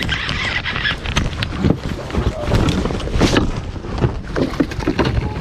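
Wind buffeting the microphone as a fluctuating low rumble, mixed with many short clicks, knocks and rustles of handling.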